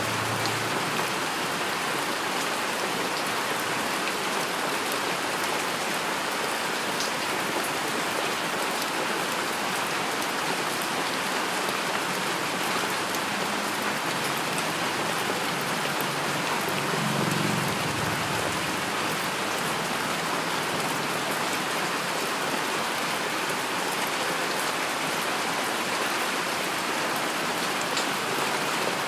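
Steady heavy rainfall: an even, dense hiss of raindrops striking surfaces, with a brief low rumble a little past halfway.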